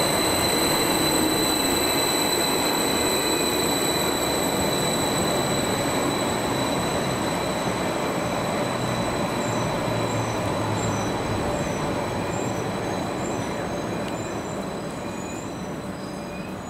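Greater Anglia Class 745 electric multiple unit running into the platform and slowing: a dense rumble of wheels on rail with a steady high whine over it, fading gradually as the train loses speed.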